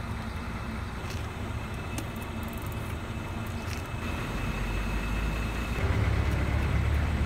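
Motor vehicle engine and road rumble, steady and low, growing louder in the second half.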